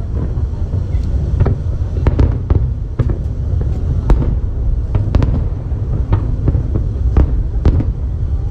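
Aerial fireworks display: a dozen or more sharp cracks of bursting shells, coming irregularly every half second or so over a continuous low rumble of booms.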